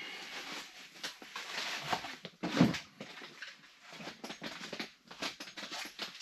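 Irregular knocks, taps and rustling of hands-on work, with one louder, deeper knock about two and a half seconds in.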